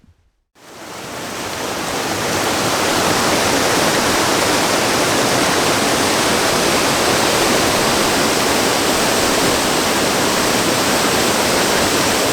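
Waterfall in spate after heavy rain, a loud, steady rush of water. It fades in about half a second in and is at full strength by about two seconds.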